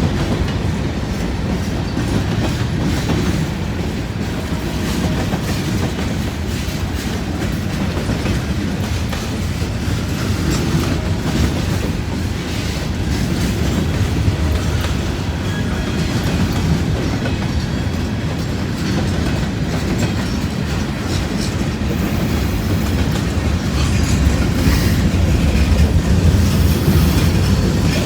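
Freight cars of a long mixed manifest train rolling past, a steady rumble with wheels clicking over rail joints, a little louder near the end.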